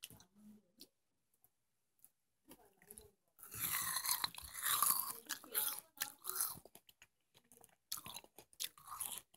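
Watermelon being bitten into and chewed close to the microphone. The first couple of seconds are mostly quiet with a few small mouth clicks. A big bite and chewing come in about three and a half seconds in, with more chewing near the end.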